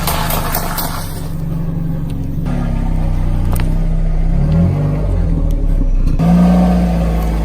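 Car engine running, its revs rising and falling twice. A few sharp cracks are heard in the first second.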